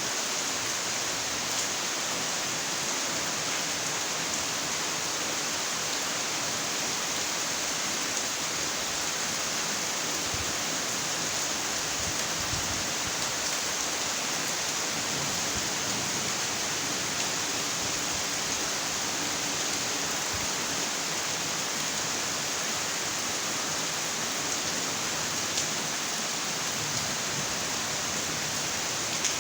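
Steady rainfall: an even, unbroken hiss of rain with faint scattered drop ticks.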